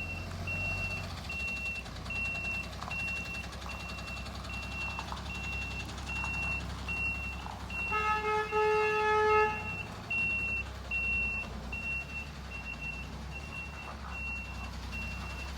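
Garbage truck's reversing alarm beeping steadily, a little more than once a second, over the low rumble of its engine. About halfway through, a vehicle horn sounds for about a second and a half, the loudest sound here.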